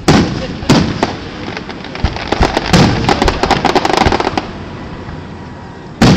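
Aerial fireworks shells bursting in loud bangs: one right at the start, two more within the first second and another just before the end. A run of rapid crackling pops fills the middle.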